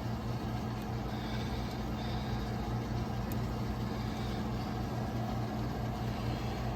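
Steady low machine hum with a constant pitch and no clear knocks or tool sounds.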